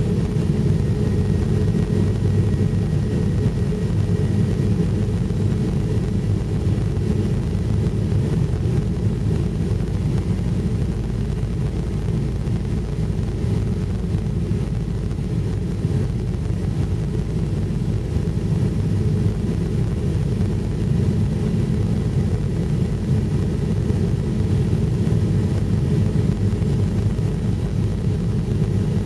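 Airliner cabin noise: the steady low rumble of jet engines and airflow, heard from inside the passenger cabin, with no change in level.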